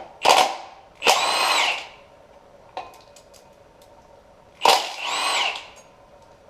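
Cordless power tool running in short bursts, most likely loosening bolts on the engine's front end: a brief blip, then two spins of about a second each, the motor pitch rising and falling each time, with a few small clicks between them.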